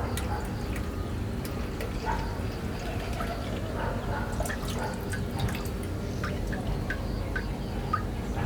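Liquid dripping into a container: a run of short, pitched drips that come closer together in the second half, over a steady low hum.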